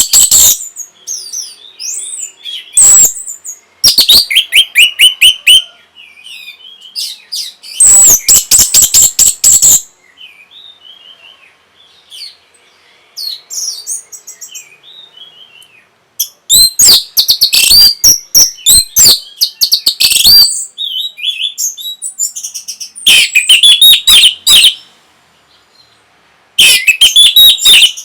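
Orange-headed thrush singing: loud bursts of rapid, varied high whistled phrases, repeated every few seconds, with softer scattered notes in the pauses between them.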